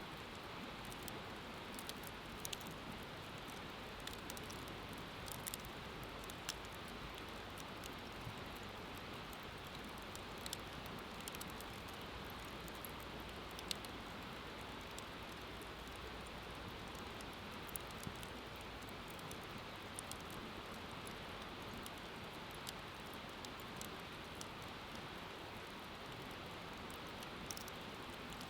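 Wood fire crackling, with irregular sharp pops scattered over a steady hiss; one pop about halfway through stands out louder than the rest.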